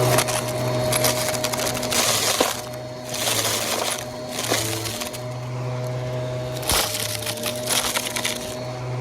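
Vacuum cleaner running with a steady motor hum while it sucks up scattered dry mess, which crackles and rattles through it in several bursts.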